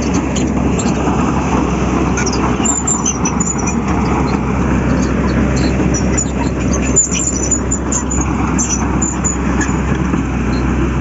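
A heavy vehicle's engine running steadily during sand loading, with faint scattered high ticks over it.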